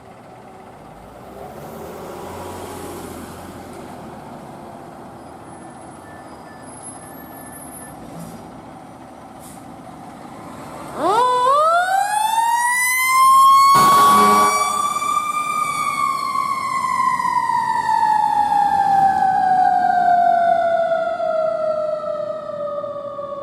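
Emergency vehicle siren starting up about halfway through over traffic rumble. Its pitch sweeps up fast, climbs slowly to a peak, and then winds slowly down. A short, loud horn blast cuts in about three seconds after the siren starts.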